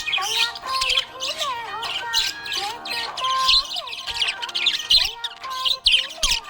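Budgerigars chirping in a busy, continuous chatter of quick high notes, over background music carrying a gliding melody.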